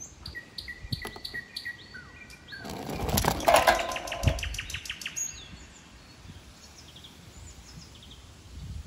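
Garden birds chirping and calling in short high notes. About three seconds in, a loud rattle of rapid clicks, roughly ten a second, lasts for some two seconds.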